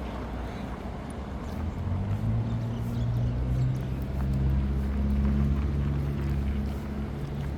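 Low, steady engine hum of a large vehicle passing close on the street, swelling from about two seconds in and easing off near the end, over steady traffic noise.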